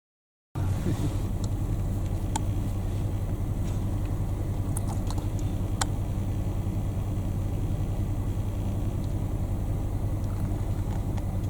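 Steady low hum of an idling engine, with a few faint short ticks.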